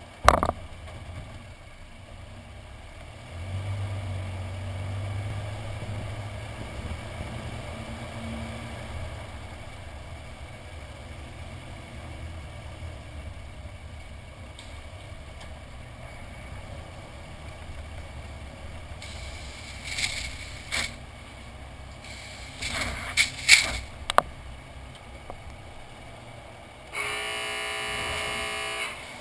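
A truck idling with a steady low rumble as it goes through a car wash. There is a sharp click at the start and a few knocks and clatters around twenty seconds in. A pitched buzzing tone lasts about two seconds near the end.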